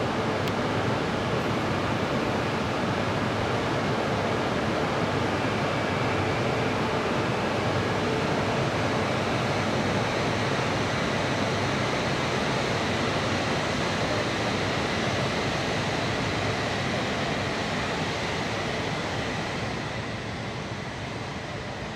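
E5 series Shinkansen train departing, its cars passing close by as a steady rushing running noise with a faint electric motor whine. The noise eases off near the end as the train draws away.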